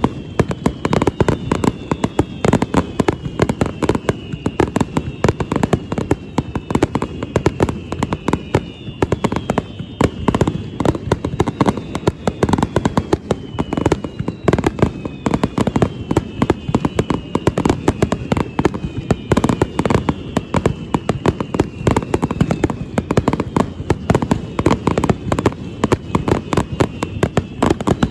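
Fireworks display: a dense, continuous barrage of bangs and crackles, overlaid by falling whistles that repeat every second or two.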